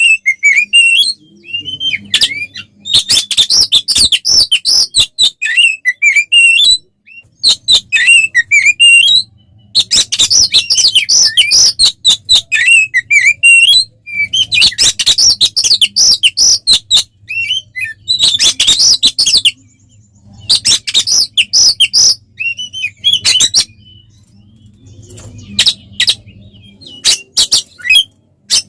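Oriental magpie-robin (kacer) singing loud, rapid, varied high-pitched phrases in bursts of a second or more, with short pauses between them. This is the excited, aggressive fighting-style song of a male in full voice.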